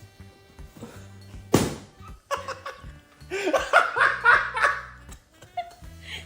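Background music with steady low notes; a single sharp knock about one and a half seconds in, then a person laughing in repeated bursts for about three seconds.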